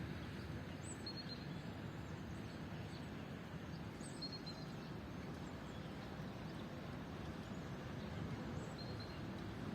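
Steady rain falling in a park, with short high bird chirps every few seconds.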